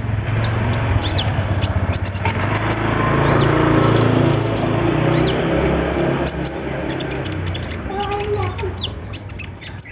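Kolibri ninja (konin) sunbird singing in spells of very fast, high-pitched ticking, the 'sewing machine' fill of its song, with a few short high whistled notes between spells.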